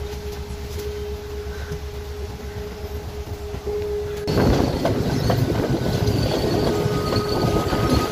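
Passenger train heard from a carriage window: a steady low hum for the first four seconds, then abruptly the louder rumble of the train running on the rails, with the wheels squealing in thin high whines and clacking over the rail joints.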